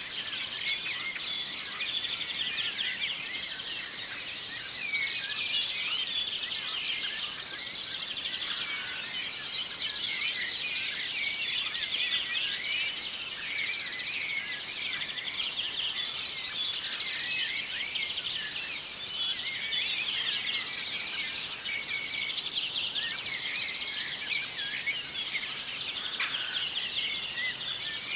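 Morning chorus of many songbirds singing at once, a dense tangle of overlapping chirps and trills.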